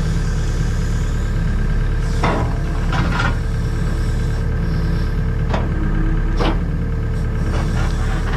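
Takeuchi TB285 compact excavator's diesel engine running steadily, with a few brief sharp sounds over it as the machine works, about two and a half, three, five and a half and six and a half seconds in.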